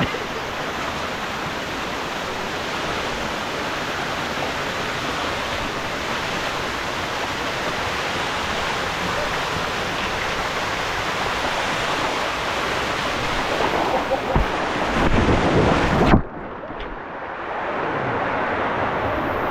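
Rushing water in a mountain canyon, a steady loud hiss. About sixteen seconds in it suddenly turns muffled and duller.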